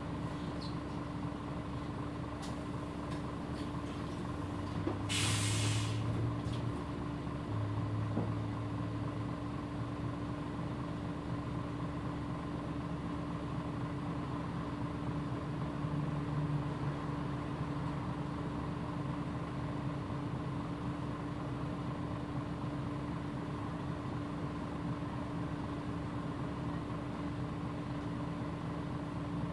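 A Mitsubishi PJ-MP35JM bus running, heard from inside the cabin: a steady engine drone with a constant whine. A short hiss of released air comes about five seconds in. The engine note swells in two stretches, around five to nine seconds and again near sixteen seconds.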